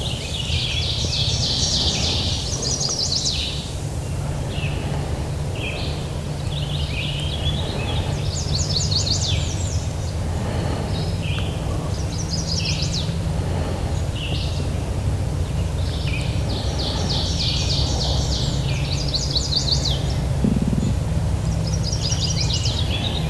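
Songbirds singing in the woods: short, fast trilled phrases repeated every few seconds, over a steady low rumble.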